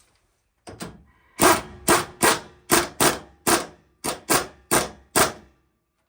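Hammer striking metal: two light taps, then about ten hard blows roughly two a second, each ringing briefly.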